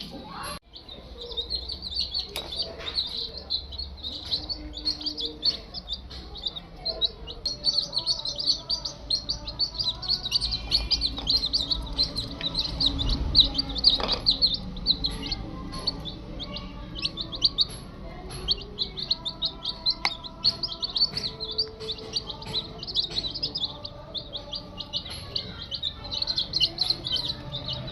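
A flock of young chicks peeping all together in a dense, unbroken chorus of short high cheeps.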